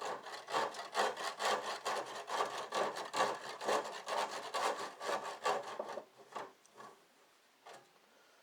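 Hand saw cutting through a garage door panel in steady back-and-forth strokes, about three a second. The strokes stop about six seconds in.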